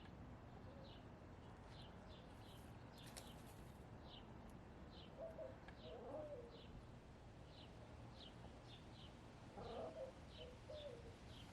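A small wild bird chirping steadily in the background, a short falling note about every half second. Twice, about five and ten seconds in, hens make soft low clucking murmurs.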